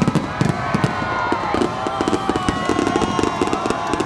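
A fireworks display crackling and popping in a rapid, dense barrage, with several high wavering tones sounding over it.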